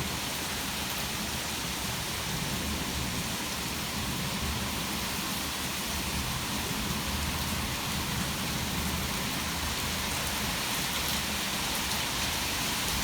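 Heavy rain falling steadily in a severe thunderstorm, an even hiss with no thunderclap standing out.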